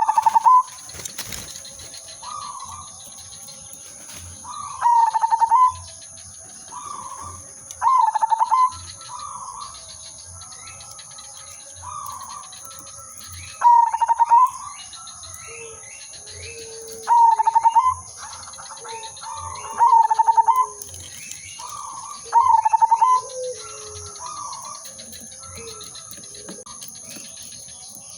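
Zebra dove cooing: a loud, trilling coo phrase repeated about every three to four seconds, with fainter coos from other doves in between. A steady high-pitched tone sits under it throughout.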